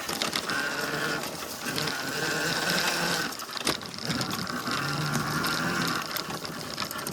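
Tuttio Soleil01 GB electric dirt bike's motor whining as the throttle is applied in three stretches, rising and easing off between them, over rough-trail rumble, with one sharp click about halfway through.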